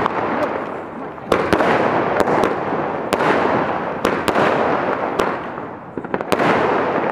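A multi-shot aerial fireworks cake firing in succession: about ten sharp bangs, often in close pairs, roughly one a second, over a continuous noisy hiss.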